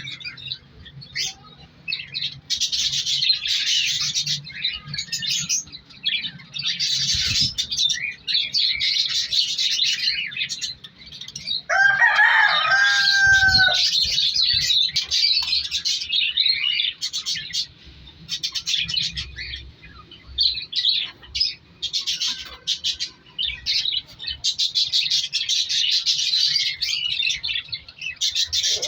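A flock of hagoromo budgerigars chattering and warbling in fast, high chirps that come and go in bursts. About twelve seconds in, a louder, lower-pitched call stands out for a second or so.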